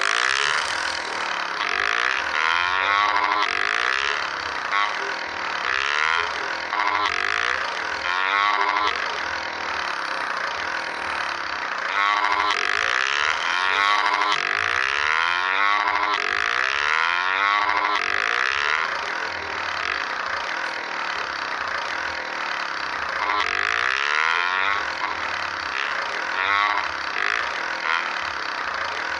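Motorcycle engine running while riding, its pitch rising and falling again and again, with a steady rush of wind noise over it.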